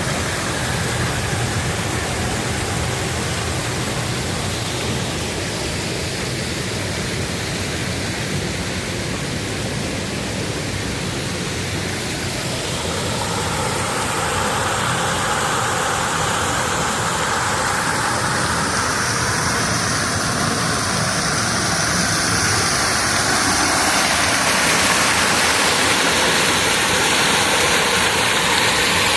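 Steady rushing of creek water over a waterfall or rapids, a loud even hiss that grows a little brighter and louder about halfway through.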